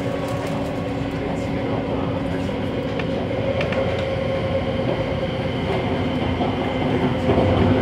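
MTR Tung Chung Line A-Train electric multiple unit running on the line: a steady rumble of wheels on rail with a few steady humming tones over it and a few faint clicks about three seconds in.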